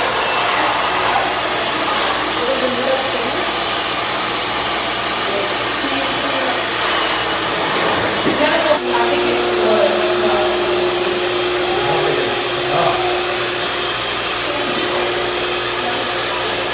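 Hair dryer blowing steadily into an inflatable truck-bed pool to inflate one of its sections. About halfway through, a steady low hum joins the airflow noise.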